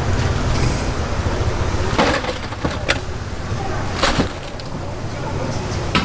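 Busy street-food stall ambience: a steady low hum with background chatter, broken by a few sharp clacks about two, three and four seconds in.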